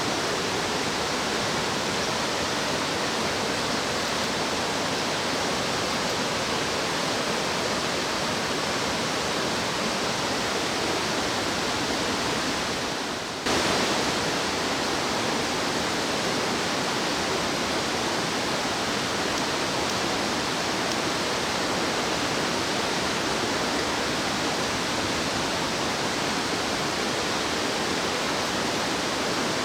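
Rushing mountain stream: a steady rush of water, which fades slightly and then cuts back in abruptly about halfway through.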